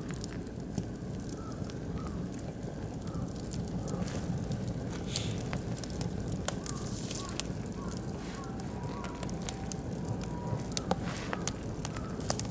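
Oak and beech wood fire crackling, with many irregular sharp pops over a steady low rumble of flames.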